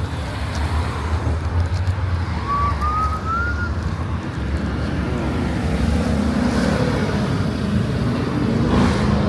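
Car engine running with a low rumble, building slightly toward the end, and a short rising whistle about two and a half seconds in.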